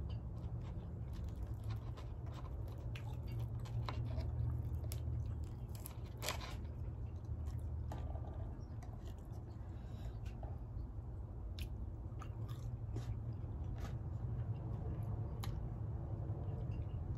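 A person chewing and biting food, with scattered crunches and small clicks, over a low steady hum.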